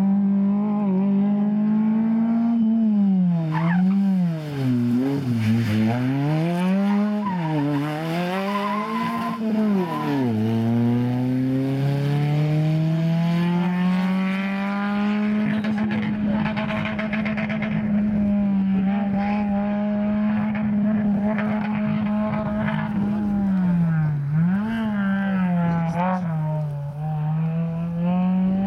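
Small hatchback rally car's engine being driven hard, the revs rising and falling again and again through a tight slalom, then climbing steadily for several seconds about ten seconds in and holding high, with a few more quick dips near the end.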